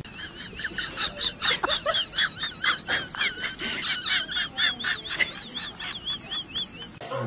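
A bird chirping: a fast run of short, high, repeated notes, about four a second.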